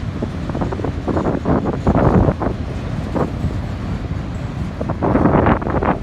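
Heavy wind buffeting the microphone in gusts, strongest about two seconds in and again near the end, over the low rumble of a BNSF freight train on the move.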